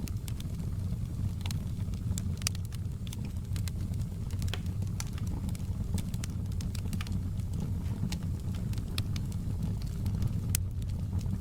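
Logs burning in a fireplace: a steady low rush of flames with frequent, irregular sharp crackles and pops from the burning wood.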